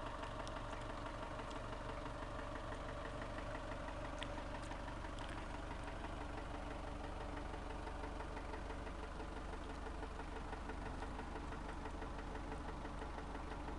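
Mazda B2500's turbo-diesel four-cylinder engine idling steadily with an even, rapid diesel clatter.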